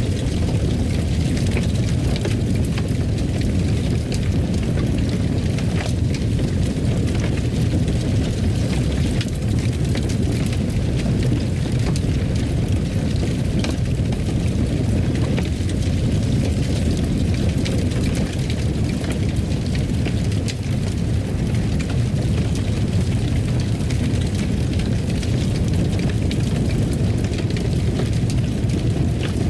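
Fireplace fire burning with a steady low roar and faint scattered crackles.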